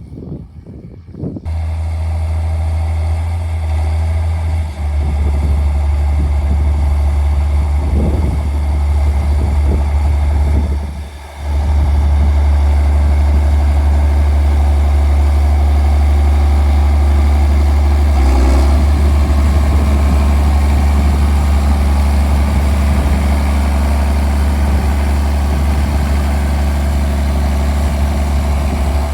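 Straight-piped John Deere 4630's six-cylinder turbo diesel running steadily, a deep, loud exhaust drone. It cuts in suddenly about a second and a half in and drops away briefly around eleven seconds before coming back.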